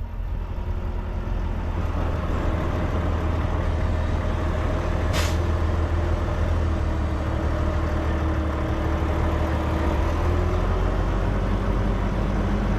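Semi truck's diesel engine running steadily while maneuvering at low speed, with one short, sharp hiss of air from the air brake system about five seconds in.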